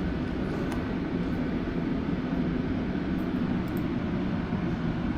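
Steady low mechanical drone with no change in level, the constant background of the dyno cell between pulls.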